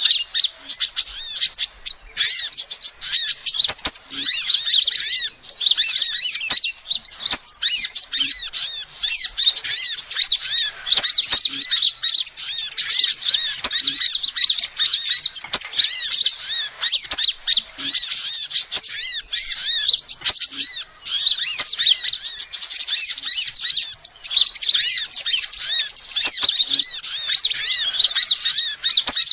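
Female sunbird calling: rapid, high-pitched chirps and trills that run almost without a break, with a few brief pauses.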